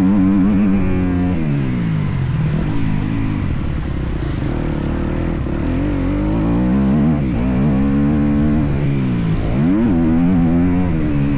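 Motocross bike engine revving up and down as the throttle is opened and closed, its pitch dropping and climbing again several times, with a sharp climb near the end.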